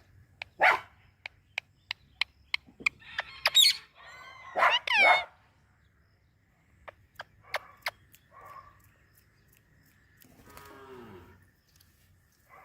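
Parrot giving several harsh, pitched squawks, the loudest a pair of calls about four to five seconds in, and a drawn-out call falling in pitch near the end, with many sharp clicks or taps scattered between.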